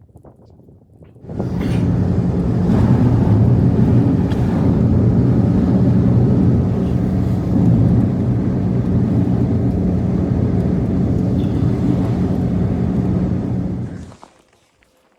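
An engine running steadily at an even pitch, starting abruptly about a second in and cutting off near the end.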